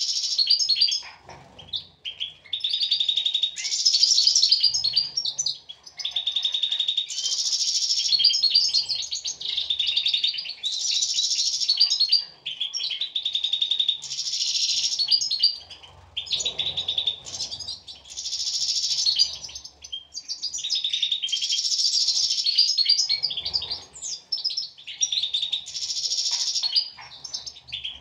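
European goldfinch song: long twittering phrases of rapid trilled notes, each lasting a few seconds, with short pauses between them.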